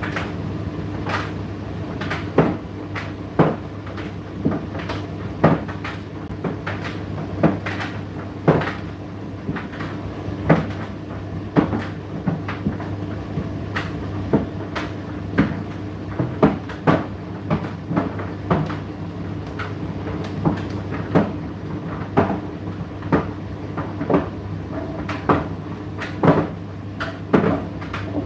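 Indesit IDC8T3 condenser tumble dryer running mid-cycle: a steady motor hum with irregular knocks, about one or two a second, as the load tumbles in the drum.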